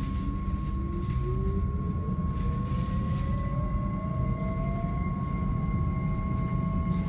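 Cabin of an NS Sprinter Light Train electric multiple unit accelerating: the traction motors' whine rises steadily in pitch over the low rumble of the running train, with a steady high tone alongside.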